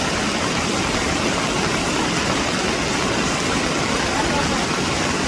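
Steady, loud rushing of water, with no change in strength, in the heavy rainy season.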